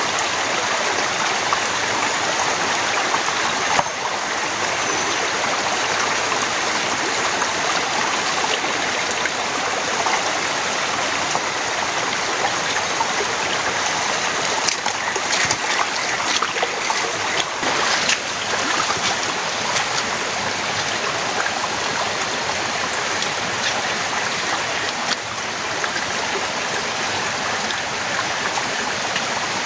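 Heavy rain falling in a steady, dense hiss, with a few sharper taps about halfway through.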